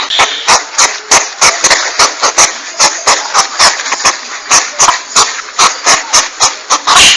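Porcupine (landak) making a rapid, steady train of sharp clicks, about four to five a second, over a hissing background.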